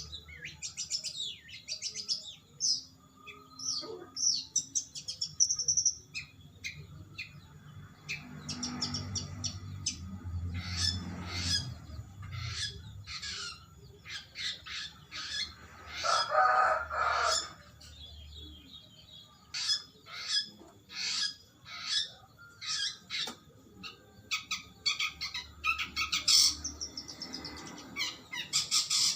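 Long-tailed shrike (cendet) singing a long, continuous run of quick, varied high chirps and trills, with one lower, louder call a little past the middle.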